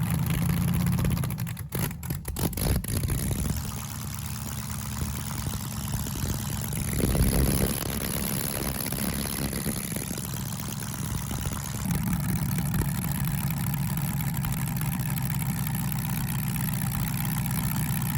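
V8 engine idling steadily, with a short blip in level about seven seconds in, as it runs after the power-steering pump is topped up with transmission fluid to test whether the wheels turn. A few sharp clicks sound about two seconds in.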